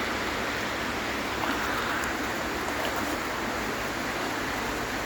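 Steady rush of running and falling water from a creek and small waterfall, an even hiss with no change.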